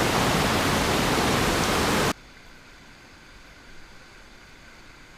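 Loud, steady rushing of river water, muffled by a GoPro's waterproof case, that cuts off abruptly about two seconds in, leaving only a faint hiss.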